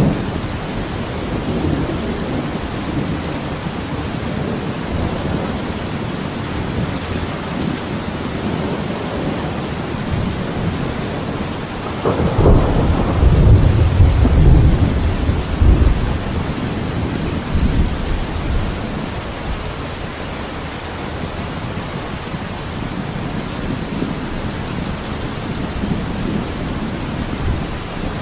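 Steady rain with thunder: a loud, deep roll of thunder builds about twelve seconds in and rumbles for some four seconds before fading back under the rain.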